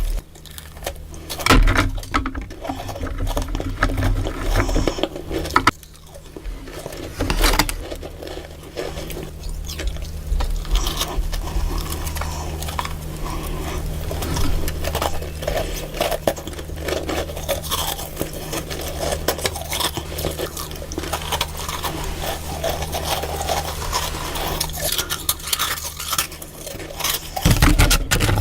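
Freezer frost being scraped: a dense run of quick scratching strokes, with louder hits about two seconds in and just before the end.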